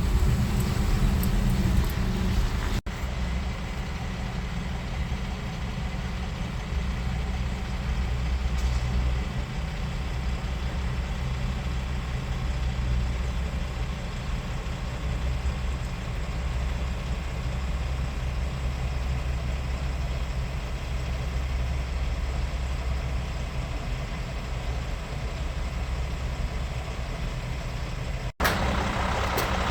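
Truck engine idling with a steady low rumble, broken by two sudden brief cuts about 3 seconds in and near the end.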